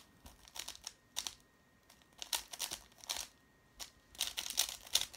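A 3x3 speedcube being turned quickly by hand: clusters of rapid plastic clicks and clacks from the layers turning, in about five bursts with short pauses between.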